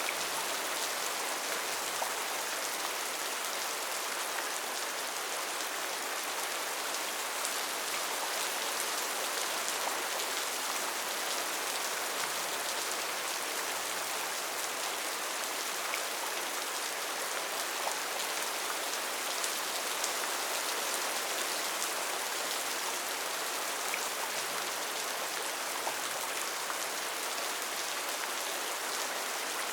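Steady heavy rain falling on rainforest foliage, a dense even hiss with many small drop patters.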